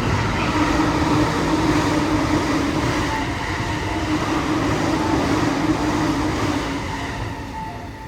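Electric commuter train heard from inside the car as it pulls out of the station: a steady hum from the traction motors over wheel and rail noise, swelling in the first second and easing slightly near the end.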